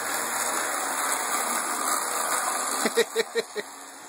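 OO gauge model train running on the layout, a steady rushing hiss that fades about three seconds in. Four short, sharp pulses follow in quick succession.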